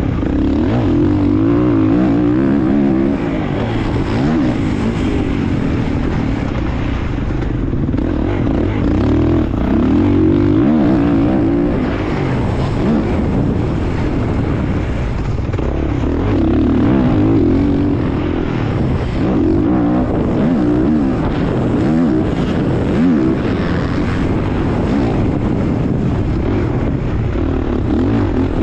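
Motocross bike engine revving hard and dropping off over and over as the bike is ridden around the track, the pitch climbing and falling every few seconds.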